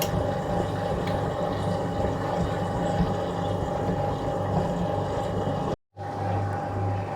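1966 Bendix LA automatic washing machine draining: its drain pump running steadily as the water is pumped out. The sound cuts out for a moment about six seconds in, after which a low hum pulses on and off.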